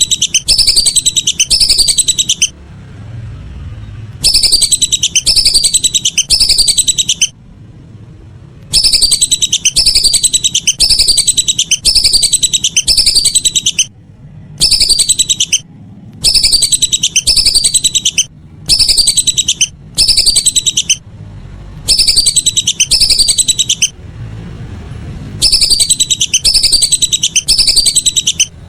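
Whistling duck calls: loud, high, falling whistles repeated about twice a second in quick runs, broken by pauses of one to two seconds.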